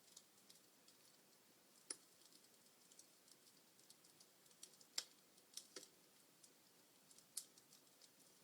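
Log fire in a fireplace crackling: scattered faint ticks with a few sharper pops, the loudest about five seconds in.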